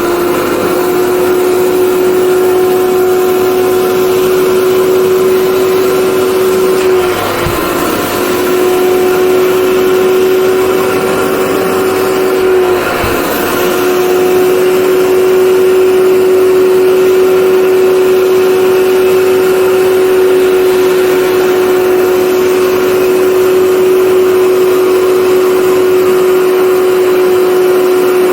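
Commercial carpet cleaning machine's motor running with a steady whine, its pitch dipping briefly twice, about seven and about thirteen seconds in.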